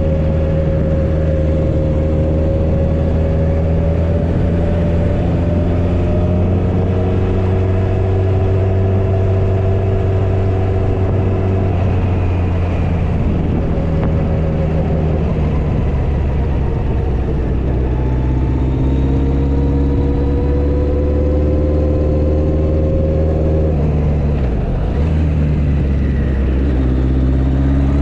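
Motorcycle engine running steadily under way, its pitch drifting slowly up and down with the throttle. It dips briefly near the end, then climbs again as the rider accelerates.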